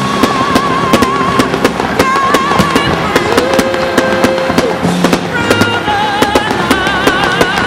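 Fireworks firing in rapid succession, sharp bangs and crackles several times a second, over music with held, wavering melody notes.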